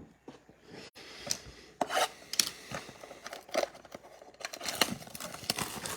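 Trading cards and their packaging handled on a table: irregular rustling, scraping and soft clicks, getting busier from about two seconds in.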